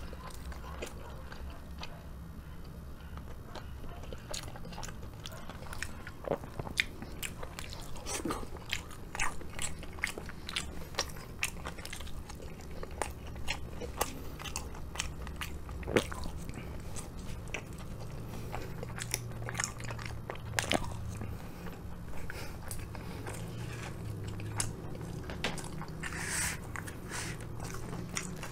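Close-up chewing of takoyaki, a person eating with many short, sharp clicks of mouth sounds throughout, over a steady low hum.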